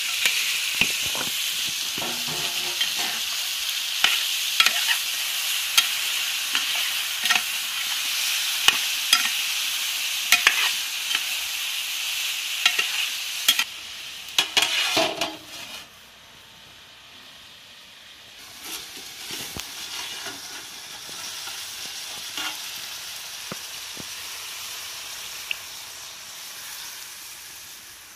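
Dried fish, cucumber and tomato sizzling in oil in an aluminium pot, with the clicks and scrapes of a metal ladle stirring. About halfway through come a few louder clatters, and after that the sizzle drops to a quieter, softer hiss.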